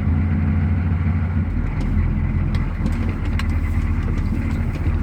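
GM 6.2-litre naturally aspirated V8 diesel of a 1991 GMC 2500 running steadily, still cold about a minute after a cold start in near-freezing air.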